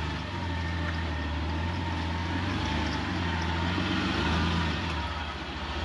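Jeep TJ's engine running steadily at low revs during a slow rock crawl, a low even drone.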